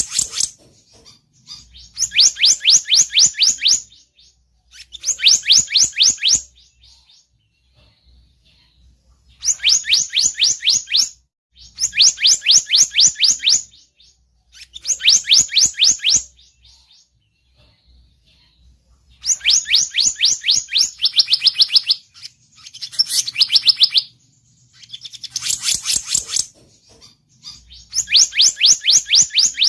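Bird lure call of the selendang biru: loud, repeated phrases, each a fast trill of quick high notes lasting about two seconds, with short pauses between them. A few phrases sit lower in pitch.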